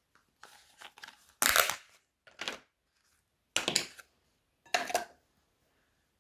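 Crunchy slime made with plastic bags, foam bricks and clay being pressed and squished by hand. It gives a few faint crackles, then four loud crackling crunches about a second apart.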